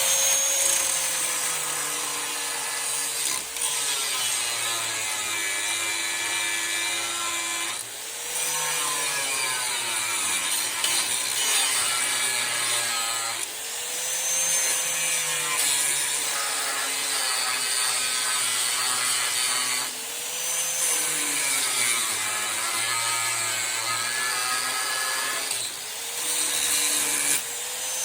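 A power tool run hard in repeated passes, about one every five to six seconds, its motor pitch dipping and recovering with each pass, while the worn-out shocks are removed from the truck.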